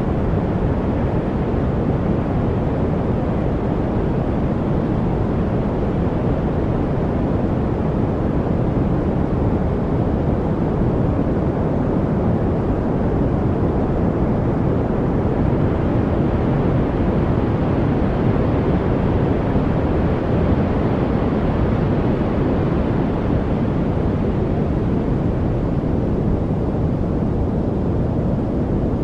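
Steady low rushing noise with no tones or clicks, weighted to the low end, its upper range swelling slightly around the middle.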